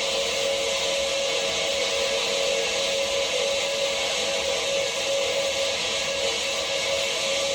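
Noise music: a dense, steady wall of static with a sustained droning tone held underneath, unchanging throughout.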